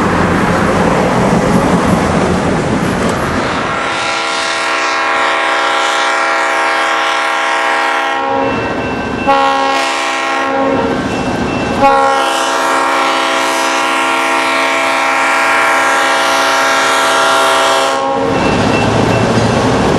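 Diesel locomotive's air horn sounding a chord in three blasts: a long one, a short one, then a longer one of about six seconds. Each is held on a steady pitch, over the rumble of the moving train.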